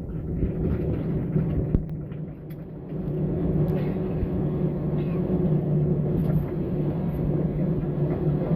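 Airbus A320 heard from inside the cabin: a steady low rumble of the jet engines and the airframe with a humming tone. It dips briefly about two seconds in and then swells again.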